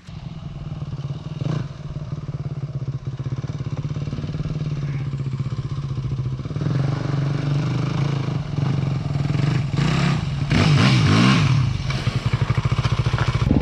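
Dirt bike engine running steadily, then revved up and down a few times about ten seconds in.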